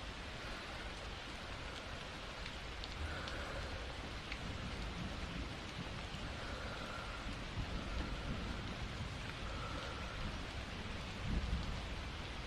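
Steady rain falling, with scattered drop ticks and a brief low rumble of thunder near the end.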